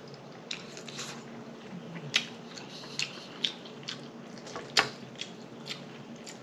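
Close-up chewing of a mouthful of macaroni and cheese, with wet lip smacks and sharp mouth clicks coming irregularly, one louder smack about five seconds in.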